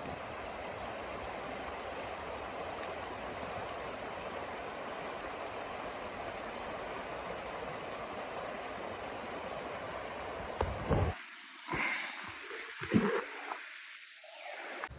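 Steady rushing blizzard wind. About eleven seconds in it drops away, and a few short, sharp knocks follow.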